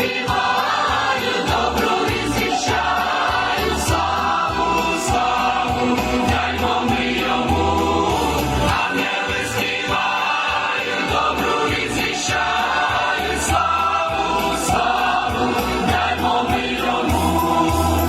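A choir singing a religious song over instrumental accompaniment, with a steady pulsing bass.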